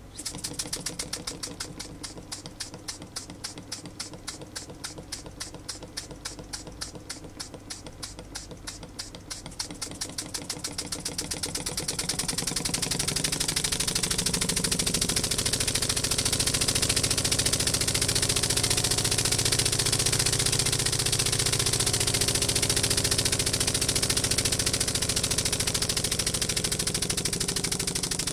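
Model single-cylinder oscillating engine running on compressed air, each exhaust puff a sharp chuff. It starts abruptly and picks up speed over about twelve seconds until the chuffs blur into a fast, steady buzz.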